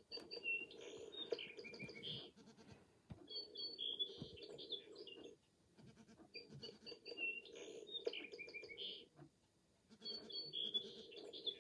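Recorded song sparrow song played through a bird clock's small speaker: a series of quick high notes and trills, repeated four times with short gaps between.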